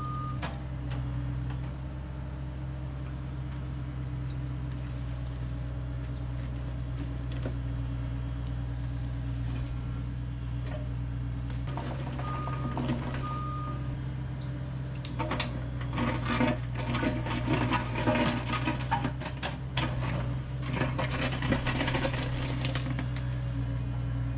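Diesel engine of tracked heavy equipment running steadily. A backup alarm gives two short beeps about halfway through. Then comes a long stretch of clanking and rattling.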